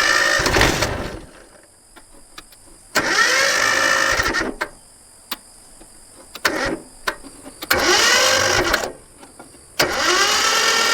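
A motor run in four short bursts of about a second or so each, its pitch dipping and recovering within each burst, with quieter gaps between.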